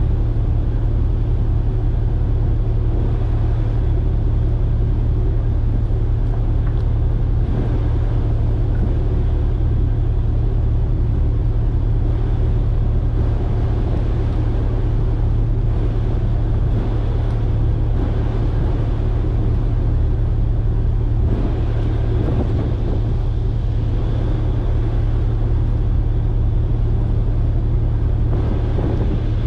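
Dive cruiser's engine running steadily, a deep even hum.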